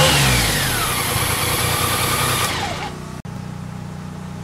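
1987 BMW K75's three-cylinder engine running at a fast idle while overheating, its temperature warning light on and the bike smoking. The engine is switched off and winds down about two and a half seconds in, leaving a quieter steady hum.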